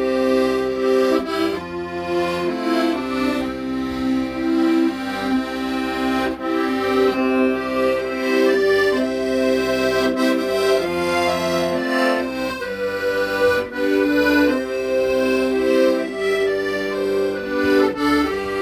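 Accordion playing a slow melody over sustained chords, with bass notes changing underneath every second or two.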